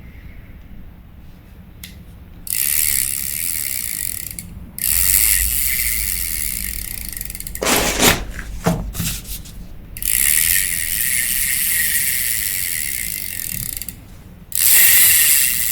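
Daiwa 1000X spinning reel being cranked by hand in four spells of a few seconds each, its gears and rotor turning with a steady high-pitched whir and no grinding, freshly cleaned and oiled. A few short knocks come in the pause between spells.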